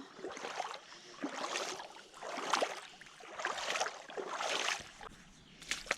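Footsteps wading through shallow floodwater, with a slosh and splash at each step, about one a second.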